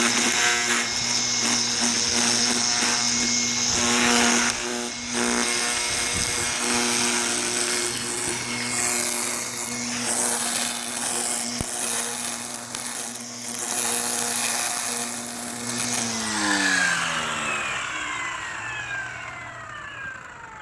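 Stihl FSA 85 battery string trimmer running at speed with a steady high whine. About sixteen seconds in, its pitch falls as the motor winds down.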